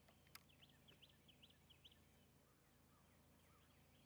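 Near silence: quiet outdoor ambience with faint, repeated high chirps of a small bird in the background, and one faint click about a third of a second in.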